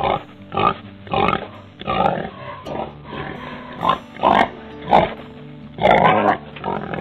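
Pig grunting in a quick series of short grunts, about one or two a second, over soft background music.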